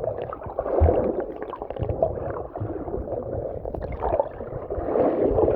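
Sea water heard from under the surface: a muffled, gurgling rush with low thumps and scattered small clicks.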